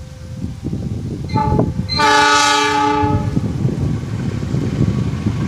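Locomotive horn sounding a brief toot, then a chord blast lasting about a second, over the steady low rumble of the train.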